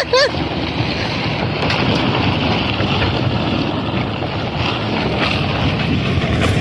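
Steady wind buffeting the microphone over the low rumble of a vehicle on the move. There are a couple of short high-pitched chirps right at the start.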